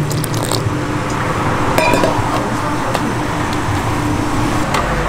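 Light clinks of utensils and dishes at a food stall, a few sharp ones about two seconds in and near the end, over a steady background hum.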